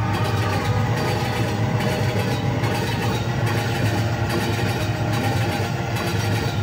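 Train sound effect: a steady low rumble of a locomotive running along the track, with a beat repeating a little faster than once a second.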